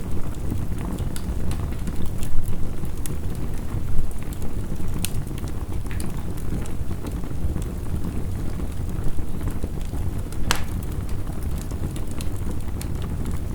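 Heavy rain as a steady low rumble, mixed with a crackling wood fire. The fire gives scattered sharp pops and snaps, the loudest about ten seconds in.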